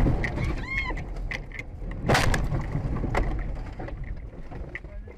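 A road collision: a sudden loud impact, then a second heavy crash about two seconds later, followed by scattered knocks and rattles that die away.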